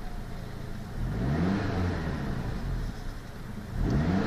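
Pontiac Sunfire's four-cylinder engine revved from idle with the car stationary: one throttle blip about a second in that rises and falls back, then another sharp rise near the end. Heard from inside the cabin.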